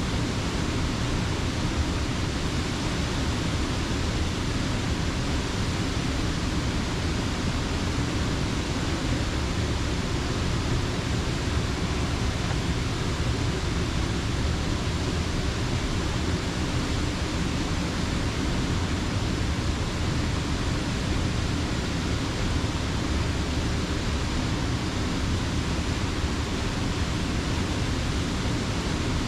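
Steady rush of creek water pouring over a mill dam, an even, unbroken wash of sound with no changes.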